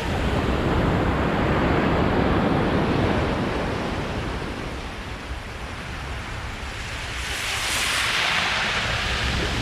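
Sea waves washing on a beach, with wind rumbling on the microphone. The hiss of the surf eases off in the middle and swells again near the end.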